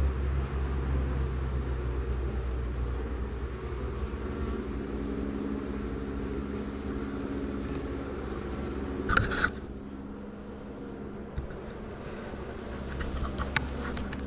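Honey bees humming steadily around a nuc box over a low rumble, with a brief clatter about nine seconds in and a few light clicks near the end.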